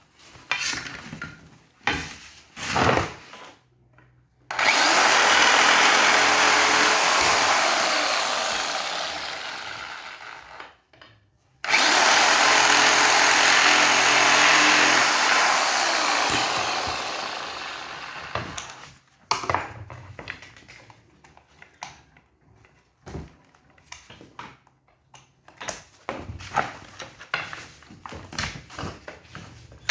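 A power tool runs in two long stretches of about six seconds each, each fading away slowly at the end. Knocks and clatter of handling come before and after.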